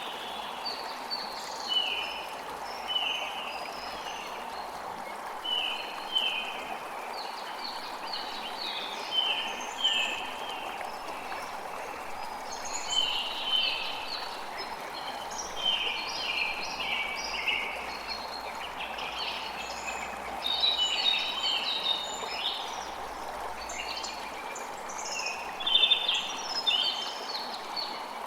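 A creek running steadily, with birds chirping over it in short, repeated calls throughout.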